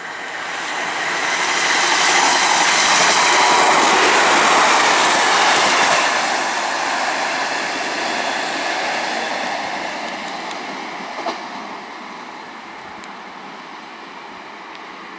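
Diesel multiple unit passing through, its engine and wheels on the rails growing louder to a peak a few seconds in, then fading slowly as it runs away down the line.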